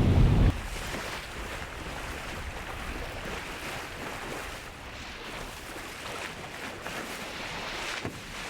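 Wind and rushing sea water aboard an ocean-racing sailing yacht, a steady hiss of water and spray that swells and eases. For the first half-second a loud low wind buffet on the microphone, which cuts off abruptly, then a brief knock near the end.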